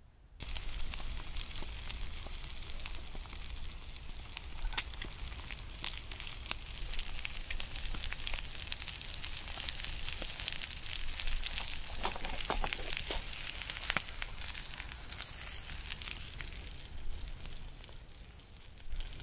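Eggs, sausage and green onions frying in a pan: a steady sizzle dotted with many small pops. It starts suddenly about half a second in.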